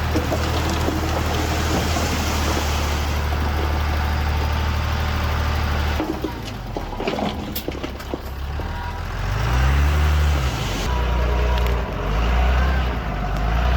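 Diesel engine of heavy earthmoving machinery running steadily, then dropping back about six seconds in with a few clanks. It revs up and down once around ten seconds in and surges again near the end.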